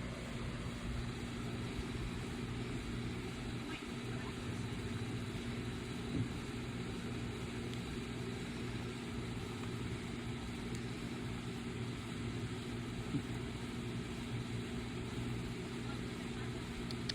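A steady low mechanical hum holding one constant tone, with two faint brief sounds about six and thirteen seconds in.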